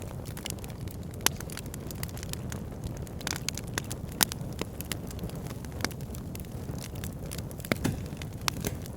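Backyard fire pit burning, with frequent irregular crackles and sharp pops over a low, steady rumble. The loudest pops come about a second in and about four seconds in.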